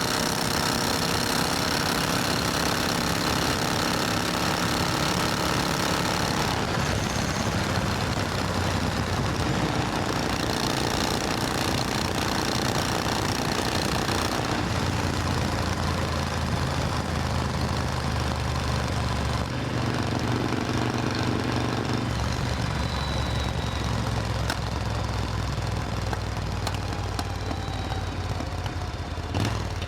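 Supercharged Triumph Thunderbird Storm parallel-twin engine running steadily over a constant rushing noise. Its pitch steps to a new level a few times.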